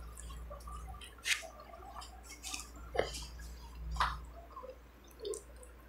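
Close-up eating sounds of someone chewing a mouthful of rice and fried egg eaten by hand, with several short wet mouth clicks and lip smacks scattered through it.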